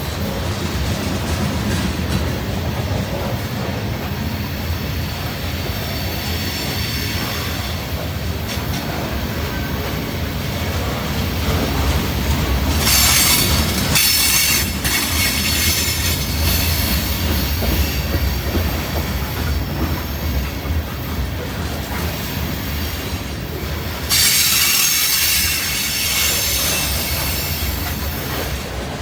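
Norfolk Southern freight train rolling past: a steady rumble of wheels on rail with faint high-pitched wheel squeal. There are two louder hissing stretches, about halfway through and again near the end.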